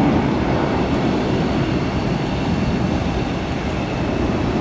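Jet airliner engines running with a steady rumble and a faint high whine, easing slightly toward the end.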